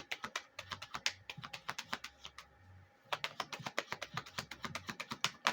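Tarot cards being shuffled by hand: two fast runs of crisp card clicks with a short pause between them, a little over two seconds in.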